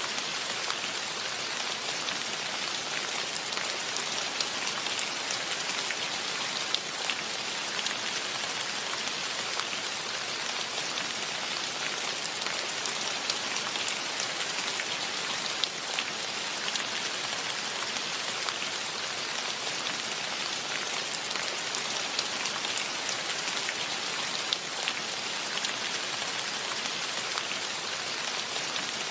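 Steady rain: a dense, even hiss with many sharp ticks of single drops striking close by.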